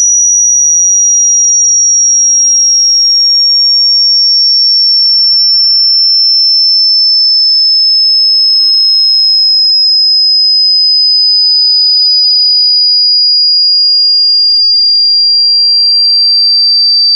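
A single loud, very high-pitched electronic pure tone, sliding slowly and evenly down in pitch. It is played as a 'ultrasound' sound meant to irritate cats and dogs.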